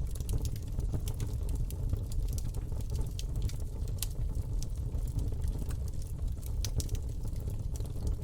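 Campfire burning: a steady low rumble of flame with irregular sharp crackles and pops of burning wood.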